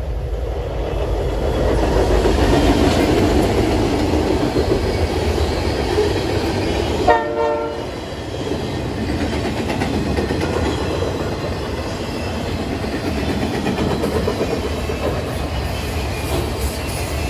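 Freight train rolling past: a steady rumble with wheel clatter from the diesel locomotive and the loaded flatcars. A short horn note sounds about seven seconds in.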